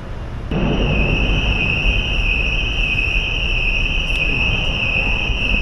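A steady high-pitched tone comes in about half a second in and holds, over a loud rumble and hiss of machinery; both stop abruptly at the end.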